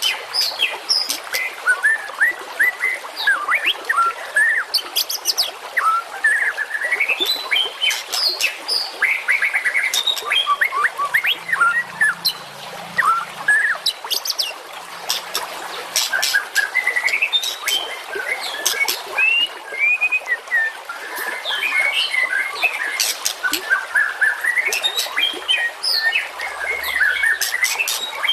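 Continuous dense songbird chatter, with rapid chirps, short rising and falling whistles and sharp high notes packed closely together, the songs of several small birds overlapping without a break.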